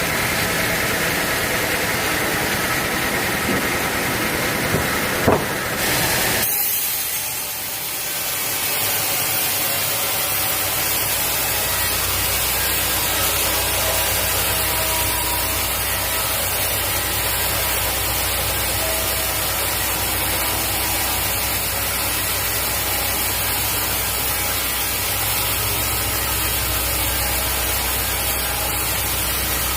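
Sawmill saw cutting teak wood, a steady loud noise with two sharp knocks about five seconds in. About six seconds in the sound changes to the machinery running on with a steady low hum.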